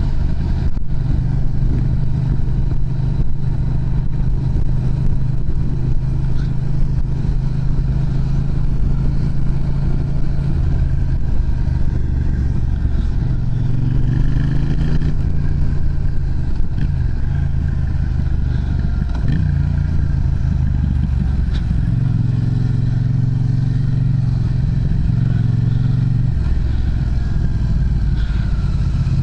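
Yamaha MT-07's parallel-twin engine running through a Pranas aftermarket muffler, its engine speed rising and falling a few times in the middle and later part.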